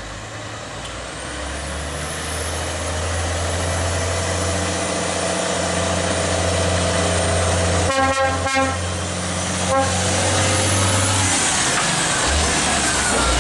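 Heavy truck's diesel engine running under load, growing louder as it approaches, with a burst of short horn honks about eight seconds in and one more shortly after.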